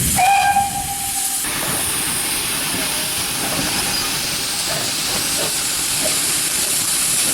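Steam locomotive letting off steam: a loud, steady hiss starts about a second and a half in and holds. Near the start there is a brief steady tone lasting about half a second.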